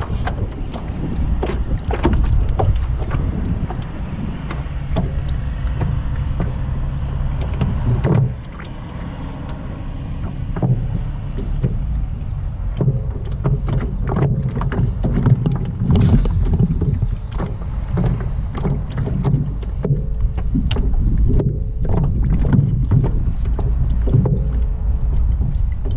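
Hobie Mirage Lynx pedal kayak on the water: a low rumble of wind and water against the microphone, with frequent small knocks and clicks from the hull and gear. A faint steady hum joins about halfway through.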